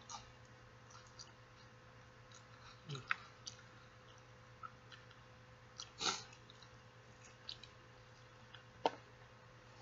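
A person chewing food close to the microphone, with scattered small mouth clicks and smacks and a few louder ones about three, six and nine seconds in. A faint steady hum runs underneath.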